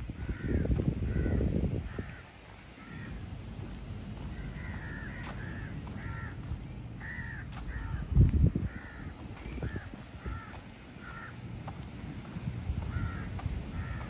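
Birds calling over and over with short, arched calls, often several a second. Low rumbling about a second in and a brief, louder low thud about eight seconds in.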